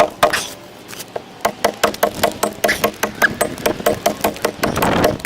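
A hand adze chopping into the wood of a dugout canoe hull: rapid, evenly spaced strikes, about four a second, with a short pause near the start.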